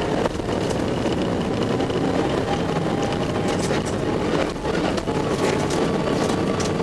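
Rally car engine running hard, heard from inside the cabin, with snow and ice clattering against the car in scattered short hits. The engine sound dips briefly about four and a half seconds in.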